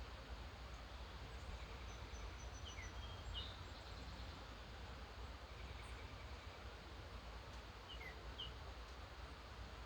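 Early morning wild birds calling faintly and sparsely: a few quick, falling chirps about three seconds in and again near eight seconds, with a thin high trill, over a steady background hiss and low rumble.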